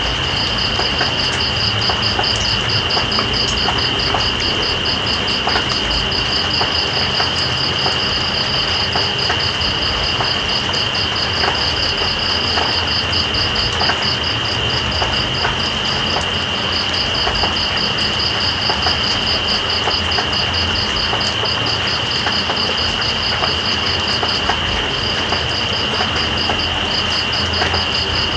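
Night insects calling over steady rain: one gives a continuous high trill, while another chirps in a fast, even pulse a little higher, pausing briefly twice in the second half. Beneath them runs an even hiss of rain with scattered drip ticks.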